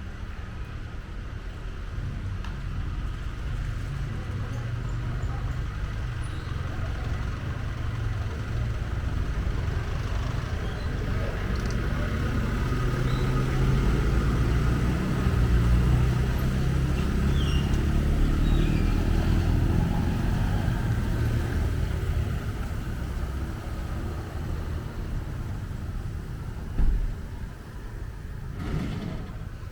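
Road traffic: a motor vehicle's low rumble swells and fades as it passes, over a steady street hiss, with a short thump near the end.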